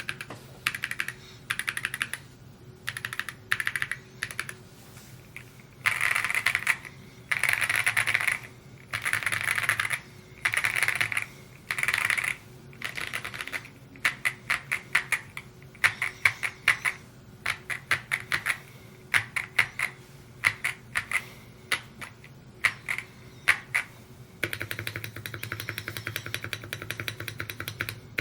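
Typing on a Mode Encore 2 mechanical keyboard: bursts of keystroke clacks with short pauses between words, some runs fast enough to blur together, and a steadier stream of keystrokes near the end.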